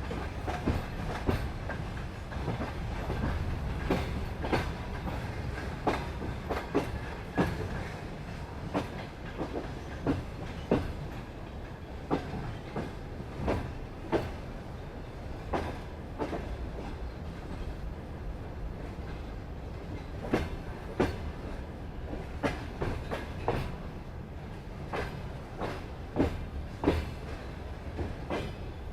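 Railway wagon wheels clattering over rail joints: a run of sharp clicks, often in pairs, over a steady low rumble.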